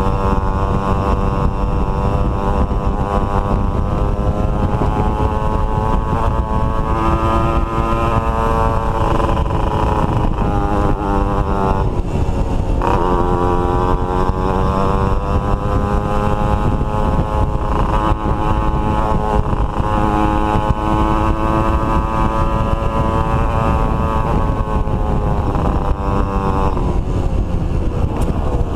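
Two-stroke motorcycle engine running while riding, its pitch rising and falling with the throttle. About twelve seconds in the revs drop sharply and then climb again.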